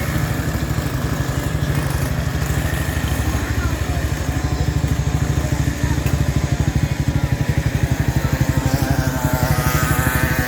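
Speedway motorcycle engine running with a fast, even low pulsing. A wavering pitched sound comes in over it near the end.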